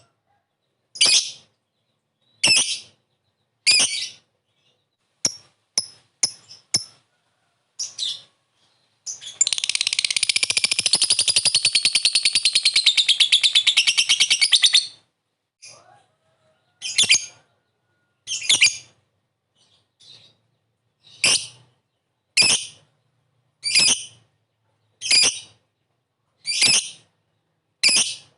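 Lovebird calling: sharp, high single calls spaced about a second and a half apart. About nine seconds in comes one long, fast chattering trill lasting about six seconds, the 'ngekek' song. After it the single calls resume.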